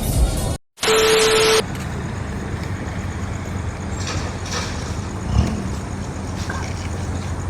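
A single short honk of a vehicle horn, one steady tone lasting under a second, then steady road noise of traffic and a vehicle engine running.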